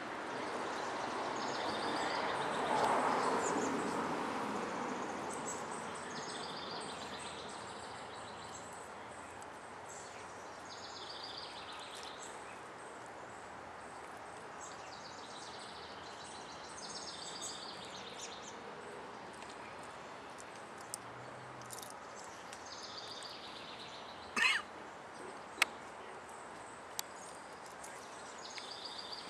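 Birds chirping in short repeated phrases over steady outdoor background noise, which swells for a few seconds near the start. A few sharp clicks come near the end.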